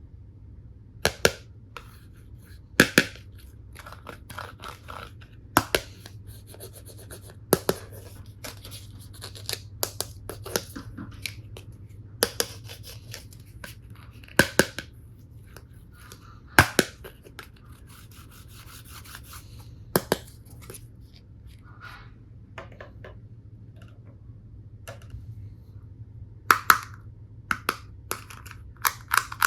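Plastic toy tool pieces and packaging being handled: sharp clicks and knocks of hard plastic, one every second or two, some in quick pairs, with softer rustling and scraping between them.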